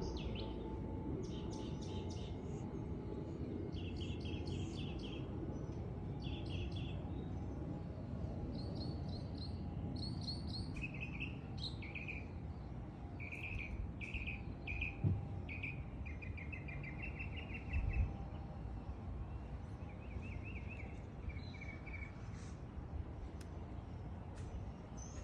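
Wild birds singing: repeated short, rapid trilled chirps from more than one bird, over a steady low background rumble. Two brief low thumps stand out, about fifteen and eighteen seconds in.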